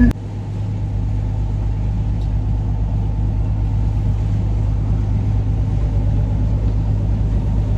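Tour boat's engine running at steady cruising speed, a continuous low drone.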